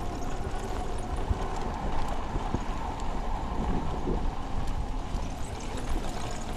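Steady wind rushing and buffeting over the microphone of a moving bicycle, with a low rumble.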